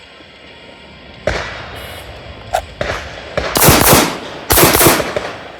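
A string of gunshots in a timed close-range shooting drill: single shots at first, then two quick clusters of shots that are the loudest part.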